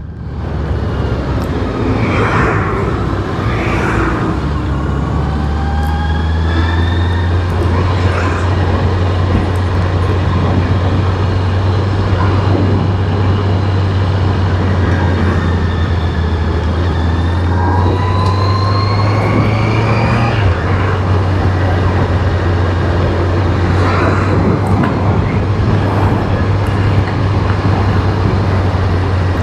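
Honda CBR650R's inline-four engine running while riding, a steady low drone under a constant rushing noise, its pitch rising twice as the bike pulls.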